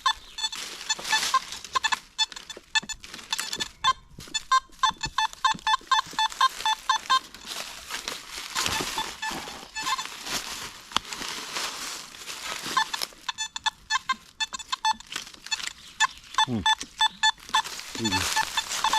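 Metal detector sounding a string of short beeps at one pitch, some in quick runs and some spaced out, as the coil is swept over targets in the ground, with rustling of the forest floor underneath.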